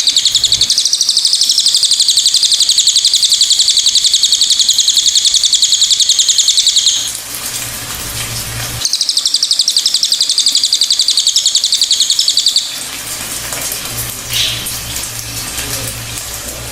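A cililin bird singing a long, very fast high-pitched trill that breaks off about seven seconds in, starts again about two seconds later and stops near thirteen seconds, followed by a short soft call.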